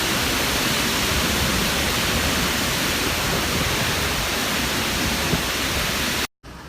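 Heavy rain from a summer thunderstorm pouring down steadily in a dense, even hiss. It cuts off suddenly near the end.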